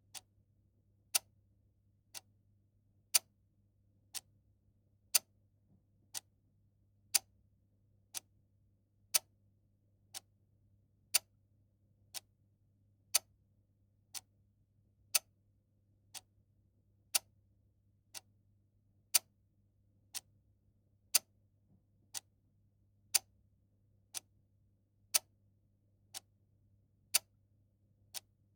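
Mechanical clock ticking steadily once a second, the ticks alternating louder and softer in a tick-tock pattern.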